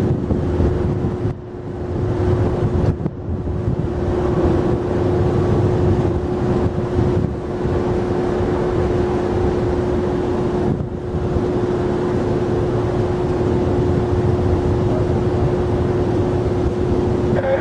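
Jet airliner engines rumbling steadily, with a constant steady tone over the rumble and wind buffeting the microphone.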